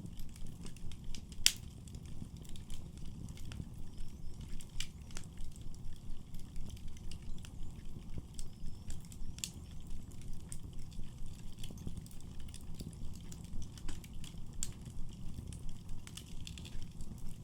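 Wood fire burning in a fireplace: a low, fluttering rumble of flames with scattered sharp crackles and pops, one loud pop about a second and a half in.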